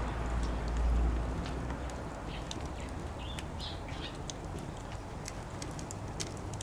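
Wood campfire in a Coleman Fire Disc crackling, with sharp pops scattered throughout. A few short bird chirps sound around the middle, and a low rumble fades out in the first second and a half.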